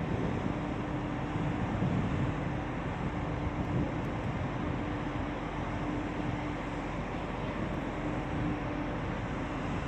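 Steady running engine or machinery noise with a constant low hum, unchanging throughout.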